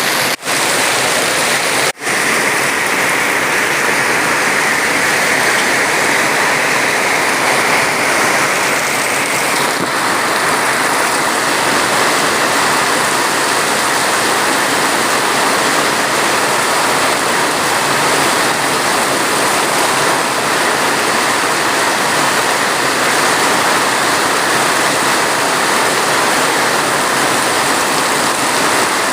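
Steady, dense rain: a continuous loud hiss with no distinct drops. It cuts out for an instant twice in the first two seconds.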